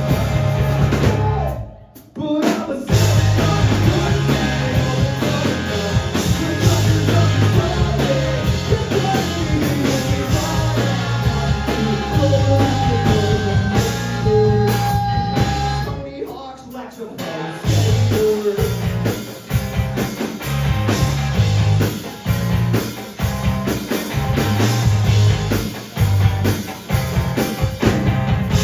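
Live rock band playing a song: drum kit, guitars and bass, with singing. The band cuts out for a moment about two seconds in, dips again around the middle, and then plays in stop-start hits.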